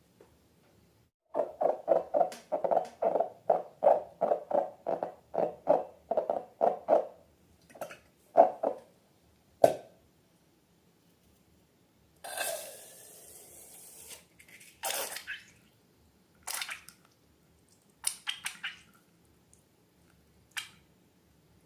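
Balloons and slime being handled for a slime-making demonstration. First comes a quick rhythmic run of soft squelching squeezes, about three a second for roughly six seconds, then a few single squishes, a short hiss about halfway through, and scattered small clicks and squelches.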